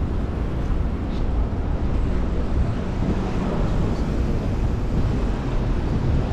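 Wind buffeting the microphone of a camera riding on a moving bicycle, a steady rushing rumble with a fluttering low end.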